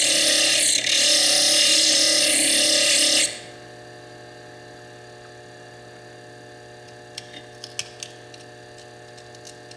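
Foredom bench lathe grinding into the chalcedony and quartz cap of a fire agate: a loud, steady grinding with a brief dip just under a second in, stopping abruptly after about three seconds. The lathe then keeps humming steadily, with a few light clicks of the stone being handled near the end.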